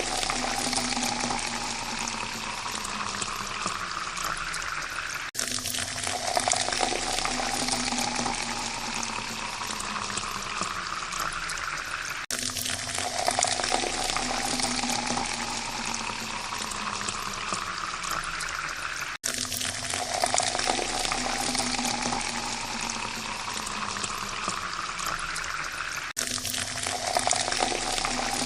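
Water being poured into a glass, its pitch rising as the glass fills. Each pour cuts off suddenly and starts again about every seven seconds, four times over.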